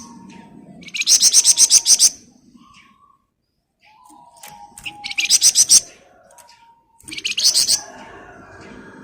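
Songbird known to Indonesian bird keepers as the flamboyan, singing in rapid, dense machine-gun trills ('ngebren'). Three high trill bursts of about a second each, near the start, the middle and just after it, with quieter whistled notes between them.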